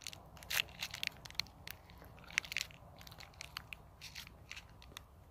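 A person biting into and chewing a peanut butter and chocolate chip granola bar: a run of short, crackly crunches, thickest in the first couple of seconds and thinning out after.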